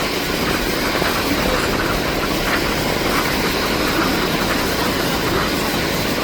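Steady drone of a Canadair CL-415 water bomber's twin turboprop engines, a loud, even rumble with no sudden changes.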